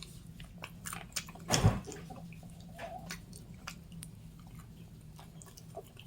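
Close-up mouth sounds of biting into and chewing a crispy fried chicken wing: scattered crisp crunching clicks, with one louder bite about a second and a half in.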